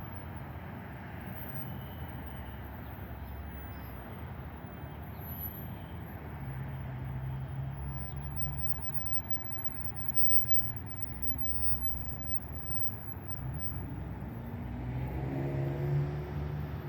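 A vehicle engine running with a steady low rumble. The hum strengthens twice, and its pitch climbs briefly near the end as it speeds up.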